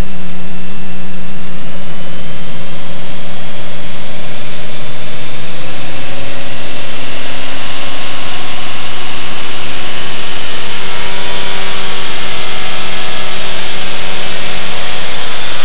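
Cessna 185 Skywagon's six-cylinder piston engine and propeller at full takeoff power, a loud steady drone with a high tone that rises slowly in pitch as the aircraft speeds up and climbs away.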